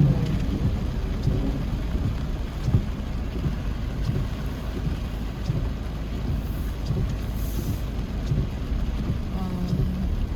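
Steady low rumble of wind buffeting the microphone, mixed with street noise.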